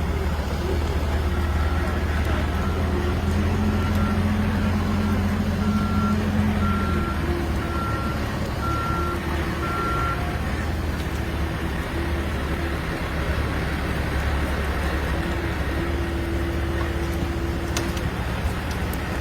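A motor vehicle running with a steady low rumble of engine and road noise. A short high electronic beep repeats about once a second for roughly the first ten seconds, then stops.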